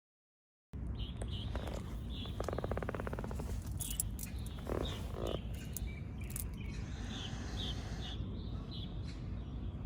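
Outdoor ambience of small birds chirping in short repeated notes over a steady low rumble, cutting in abruptly after a moment of silence.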